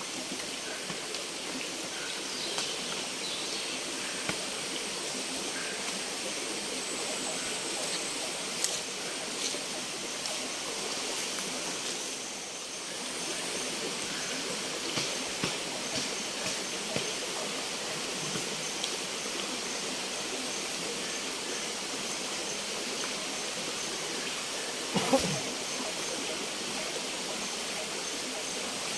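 Steady rushing of flowing river water, with scattered small clicks and a louder knock about 25 seconds in.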